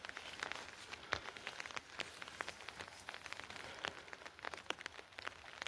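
Steady rain, with many separate drops striking a surface close by.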